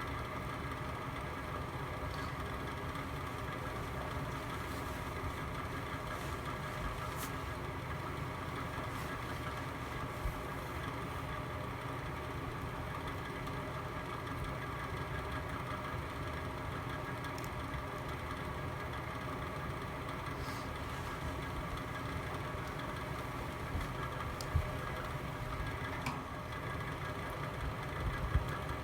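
Fireplace fire burning with a steady low rumble and hum, broken by a few sharp crackles from the burning wood, one about ten seconds in and several near the end.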